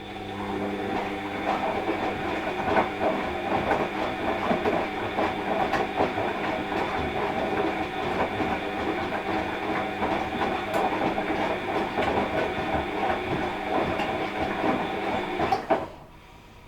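Washing machine running a wash-cycle tumble: the motor whines steadily over a dense clatter as the drum turns for about fifteen seconds, then cuts off suddenly near the end, leaving a faint hum.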